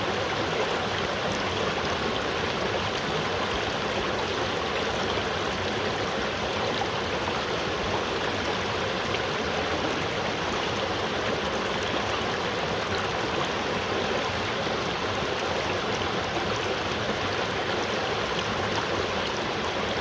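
River water flowing steadily, a continuous even rush and babble of running water.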